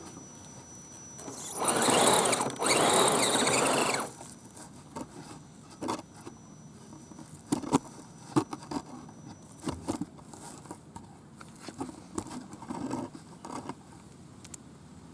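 Radio-controlled 4x4 scale truck climbing a hill: two loud pushes of motor and tyres scrabbling over dirt about two to four seconds in, then scattered clicks, knocks and scrapes as it crawls over the ground.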